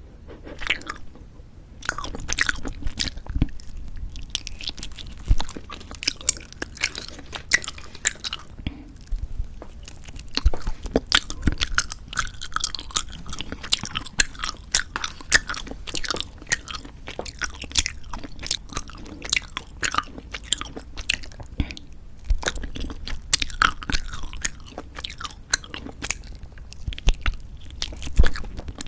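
Close-miked chewing of gummy jelly candies, with many irregular wet clicks and squishes as they are bitten and worked in the mouth.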